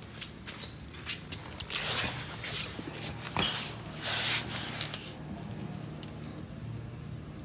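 Loose metal hardware, body mounting bolts and washers, clinking and jangling as it is handled, with a string of sharp metallic clicks and some rustling in between.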